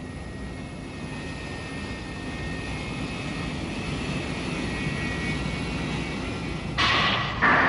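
Animated spaceship engine sound effect: a steady low rumble with a faint high hum that slowly grows louder. A sudden louder rush comes in near the end.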